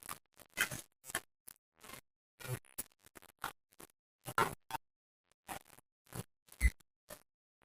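A person chewing crunchy raw vegetables and jengkol close to the microphone: short, irregular crunches and mouth clicks, with one louder crunch near the end.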